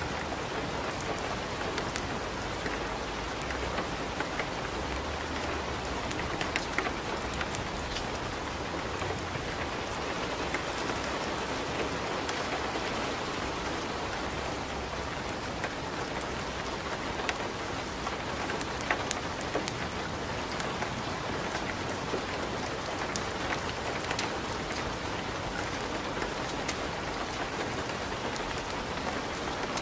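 Steady rain falling, with sharp crackles and pops from a wood fire in a fireplace scattered throughout.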